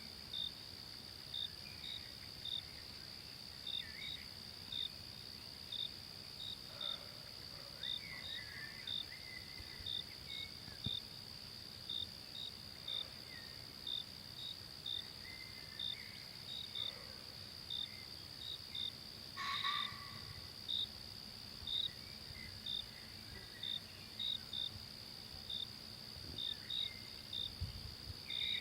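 Forest insect chorus: a steady high-pitched drone with short, evenly spaced chirps about twice a second. Faint scattered calls sound lower down, and one brief louder sound comes about two-thirds of the way through.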